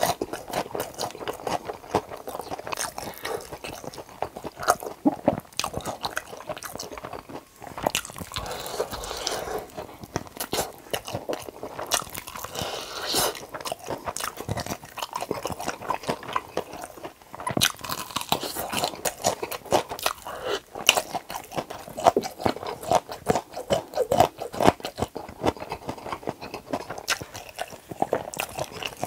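Close-miked crunching and chewing of a crispy fried chicken drumstick coated in cheese sauce, with repeated bites into the crunchy batter.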